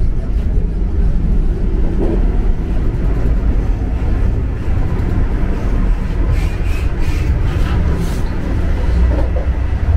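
Vande Bharat Express electric multiple-unit train running, a steady rumble of wheels on rail.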